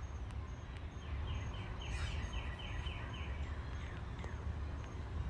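A songbird singing a quick run of about eight repeated down-slurred whistled notes, about four a second, stopping a little past the middle. A steady low rumble runs underneath.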